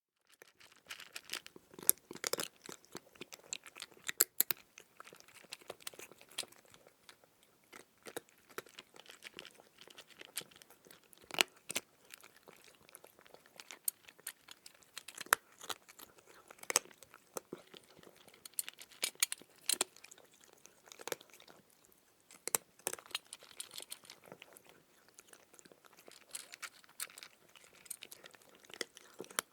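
Cat chewing dry kibble: irregular crunches and crackles, several a second, all the way through.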